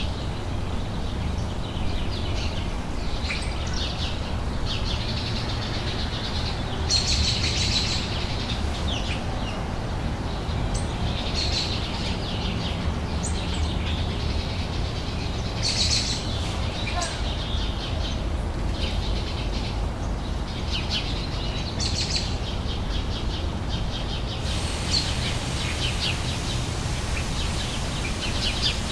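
Summer outdoor ambience: small birds chirping and calling over and over above a steady low rumble. About three-quarters of the way through, a faint high steady hiss joins in.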